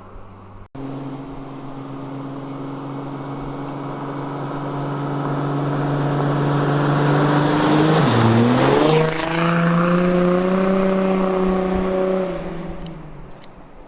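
Audi A7 3.0 TDI V6 diesel with a straight-pipe exhaust and no muffler, driving by: the engine note grows steadily louder, drops briefly in pitch about eight seconds in, then picks up to a higher steady note before fading near the end.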